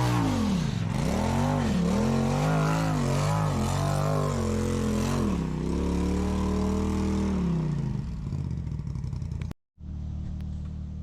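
Off-road rig's engine revved up and down over and over, its pitch rising and falling about once a second as the driver works the throttle to crawl over rocks. About eight seconds in the revving eases off, the sound cuts out for a moment, and then a steady, lower engine idle follows.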